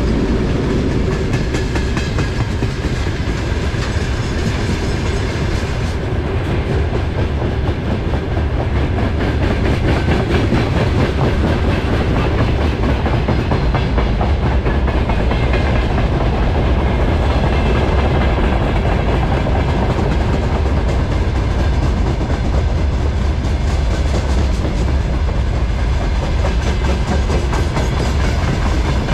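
A train running past on the rails: a loud, steady rumble of wheels with clickety-clack over the rail joints.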